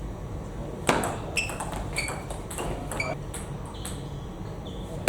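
Table tennis rally: the celluloid ball clicks off the bats and pings off the table in quick alternation, about two hits a second, starting about a second in.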